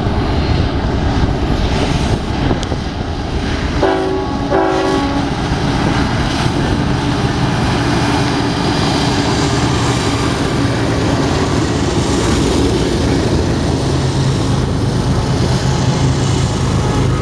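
BNSF container train passing, its diesel locomotives and wheels on the rails making a loud, steady rumble. The locomotive horn sounds two short blasts about four seconds in.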